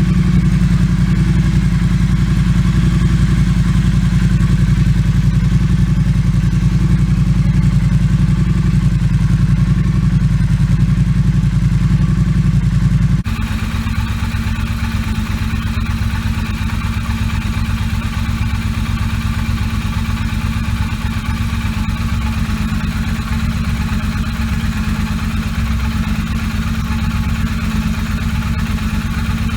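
2017 Triumph Street Cup's 900 cc parallel-twin engine running steadily at idle through TEC 2-into-2 slip-on mufflers. About thirteen seconds in, the sound changes abruptly and becomes a little quieter and thinner, then stays steady.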